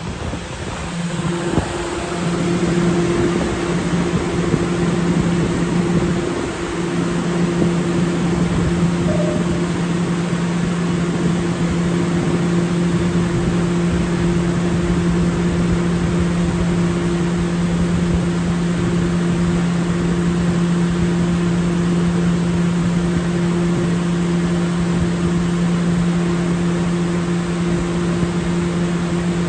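New York City subway train's steady electrical hum, two unchanging tones over a constant rushing noise, settling in about a second and a half in.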